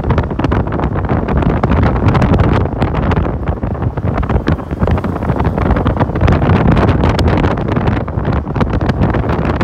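Wind buffeting the microphone on a moving motorcycle taxi, a loud, gusty rumble with the motorcycle's running noise underneath.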